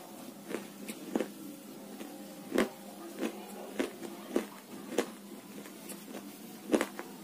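Close-miked chewing of hard, crumbly nakumatt pieces: about eight sharp, irregular crunches, the loudest near the end, over a faint steady hum.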